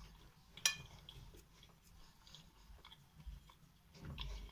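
Close-up mouth sounds of someone chewing a mouthful of cake: soft, wet chewing with small crunchy bits. There is a sharp click about a second in.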